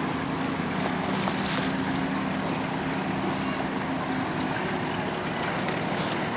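Boat engine running with a steady low hum that eases slightly near the end, over wind noise on the microphone.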